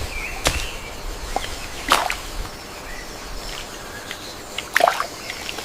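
Sharp, whip-like bird calls, each a quick downward sweep, heard three times over a steady haze of natural background noise, with a few short high chirps between.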